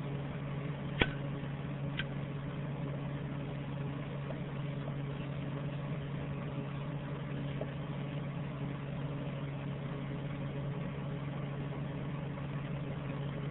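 Steady low hum made of a few even tones, with two sharp knocks a second apart about a second in.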